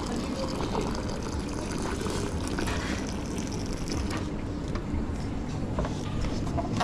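Liquid running at an espresso machine, over a steady café background; the higher hiss drops away about four seconds in.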